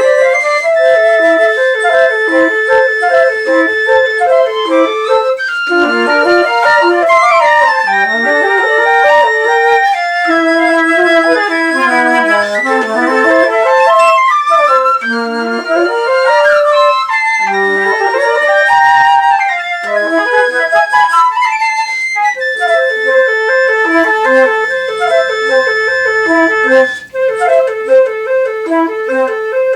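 Flute ensemble of several overdubbed flute parts, alto flute among them, playing together: a long held high note over quickly repeated short low notes, with runs that sweep down and back up.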